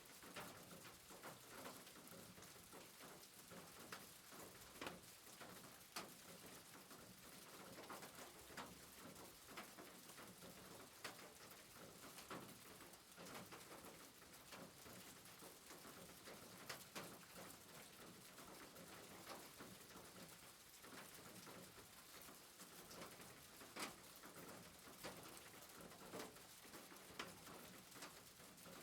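Faint soft rain: a low, even hiss with scattered small drips and ticks.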